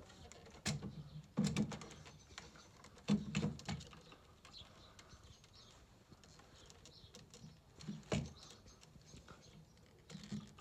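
A few scattered knocks and clicks from parts being handled and fitted on a stairlift carriage, the loudest about one and a half and three seconds in, with a quiet stretch before a last knock near the end.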